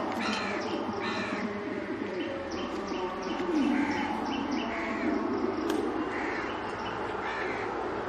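A bird calling over and over, short arched calls about once a second, over a steady low rumbling noise.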